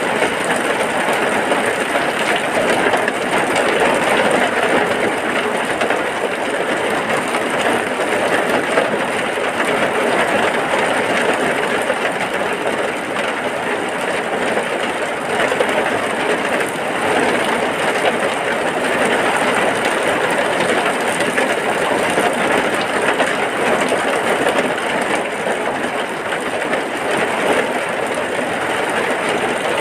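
Heavy rain falling steadily, an even, unbroken hiss that holds its loudness throughout.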